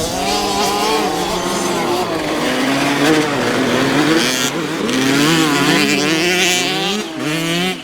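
Several youth motocross bikes revving hard on a dirt track, their engine notes rising and falling over one another as the riders open and close the throttle and shift gears.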